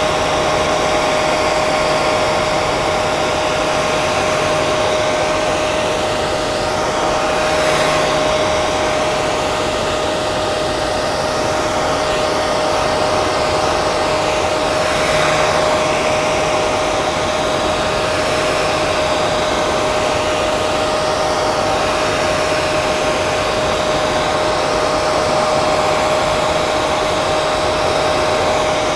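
Hair dryer running steadily: a constant rush of air over the hum of its motor, which holds one steady tone throughout, with slow gentle swells in the hiss.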